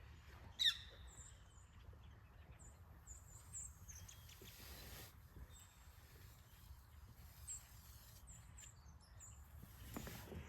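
Quiet woodland background with small birds giving short, high chirps again and again, and one louder call sweeping down in pitch about a second in.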